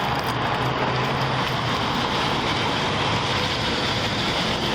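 Steady vehicle noise: an even rushing sound over a low hum.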